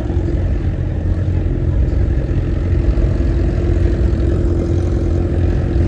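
Car engine running steadily, a loud low rumble with a constant hum, with no revving.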